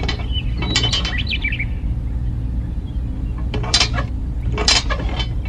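Bird chirps, including a quick run of falling chirps about a second in and a few short calls near the end, over a steady low hum.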